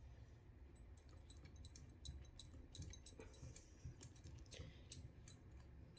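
Near silence: a cup spinner's small motor humming faintly and steadily, with scattered light clicks throughout.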